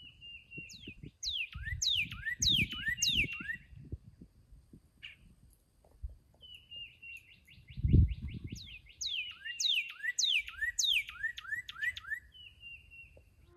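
Northern cardinal singing two songs, each a quick trill followed by about five loud, steeply falling whistled notes. Low rumbling underneath, and a low thump about eight seconds in.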